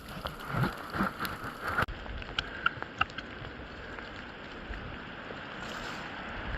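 Steady rain with scattered drops tapping close by, some landing on the phone that is recording. About two seconds in, the high hiss cuts off abruptly.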